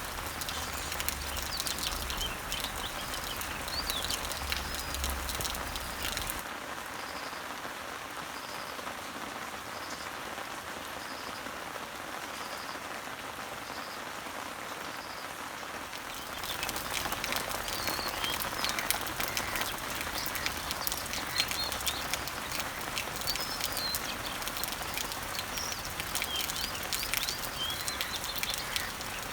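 Rain falling steadily on garden leaves and trees, with many small drip ticks, and birds chirping in the background. Through the middle stretch one bird repeats a short high note about once a second.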